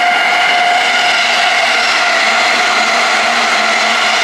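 Electric train running, with a steady high-pitched whine over the running noise.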